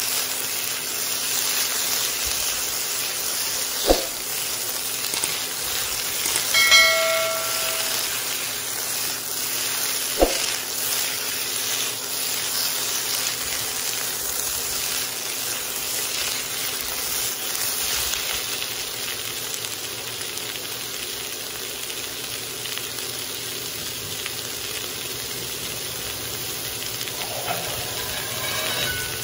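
Chayote squash strips and onion sizzling in a hot wok as they are stir-fried, a steady frying hiss. Two sharp knocks, about four and ten seconds in, and a brief high-pitched squeal at about seven seconds, the loudest moment.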